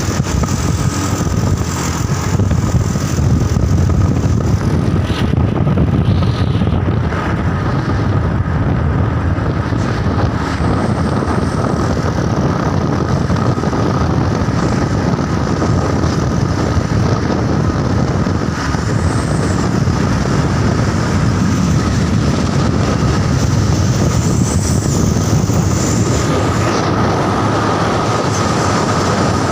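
Heavy truck driving: a steady, loud rumble of engine and road noise with a faint steady whine over it.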